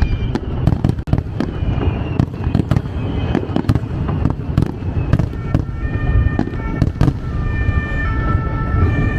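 Aerial fireworks shells bursting in quick succession, sharp cracks and bangs over a continuous deep rumble. Steady high tones join in over the second half.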